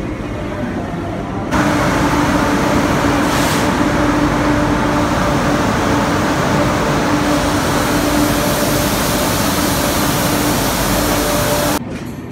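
Loud, steady mechanical drone of a passenger train standing at the platform: a constant hum under a noisy roar. It starts suddenly about a second and a half in and cuts off suddenly near the end.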